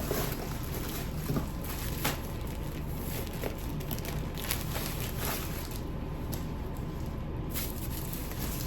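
Garments being handled: soft rustles and brief crinkles every second or so, over a steady low background hum.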